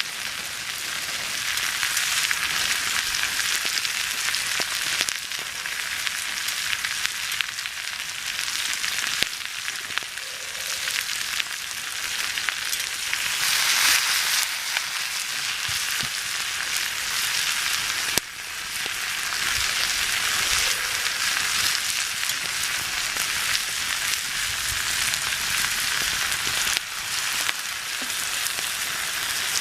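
Stir fry sizzling in a pan over a campfire: a steady frying hiss that swells briefly about halfway through.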